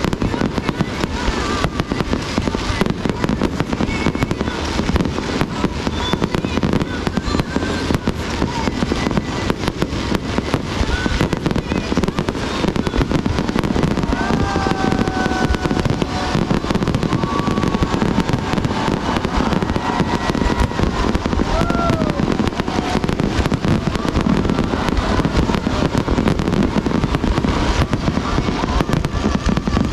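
Fireworks display going on without a pause: a dense run of bangs and crackling bursts, one after another.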